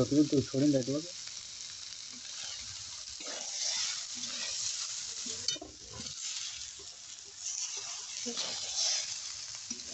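Rice and vegetables sizzling in hot oil in a metal kadhai while a spatula stirs and scrapes them around the pan. A short voice sounds in the first second.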